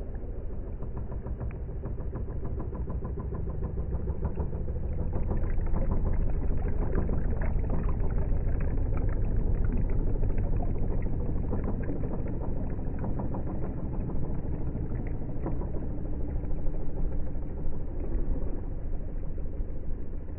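Heng Long RC work boat running on the river: a steady engine-like rumble with fine crackle, swelling louder about four to six seconds in and easing slightly after ten seconds.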